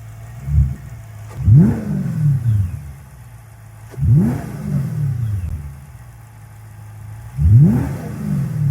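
A 2006 Audi S4 Avant's 4.2-litre V8 idling, with a short throttle blip about half a second in, then revved sharply three times, each rev climbing quickly and falling back to idle over about a second.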